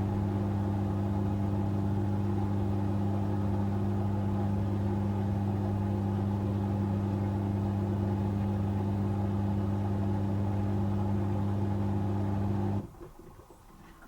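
Asko W6098X washing machine running with a steady, unchanging hum that cuts off suddenly near the end.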